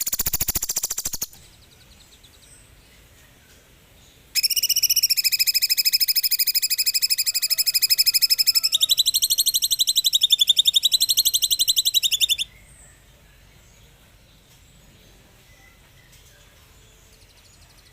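Cucak cungkok songbird giving a short rattling burst at the start, then, from about four seconds in, a long rapid high trill of 'tembakan' (shooting) bursts. The trill steps up in pitch about halfway and wavers, then stops abruptly. Faint chirps follow.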